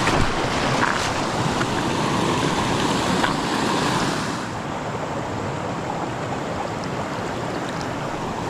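Steady rushing of creek water, a little quieter from about halfway through.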